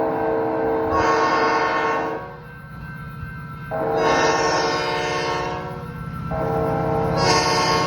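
Metra commuter train's horn sounding in three long blasts. The first dies away about two seconds in, the next starts about a second and a half later, and the third follows after a brief dip. Under the horn runs the steady low rumble of the train.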